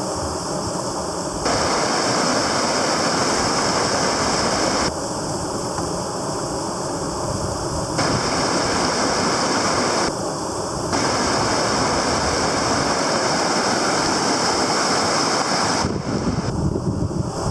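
Rushing river water with wind buffeting the microphone, a steady roar that drops abruptly to a duller, quieter sound several times and comes back.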